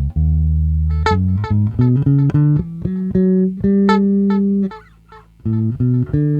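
Electric phin (Isan lute) and electric bass playing a short run of plucked notes through an amplifier, with the phin's delay effect being set. The notes stop briefly about five seconds in.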